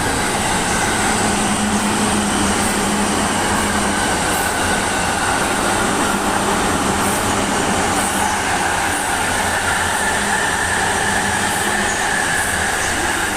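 E257 series electric train passing, with steady, loud rolling noise of wheels on rail and a high thin wheel squeal that grows stronger in the second half.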